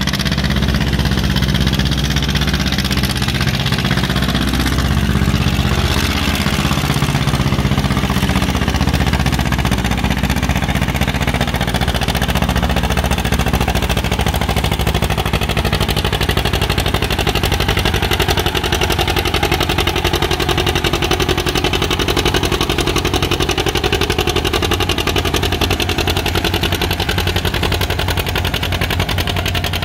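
Antique farm tractor's engine running loud and steady.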